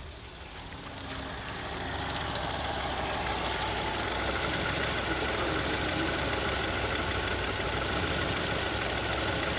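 2002 Honda CR-V's 2.4-litre four-cylinder engine running with a rough idle. It grows louder over the first couple of seconds, then holds steady. The rough idle is not cured by cleaning the throttle body and idle air control valve, and the owner suspects a bad throttle body or idle air control valve.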